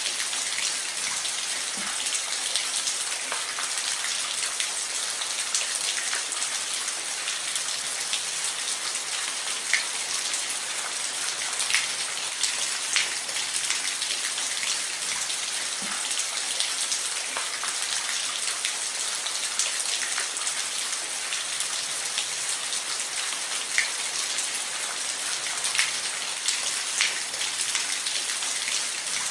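Steady rain falling on a roof: a constant hiss with scattered individual drops ticking sharply now and then.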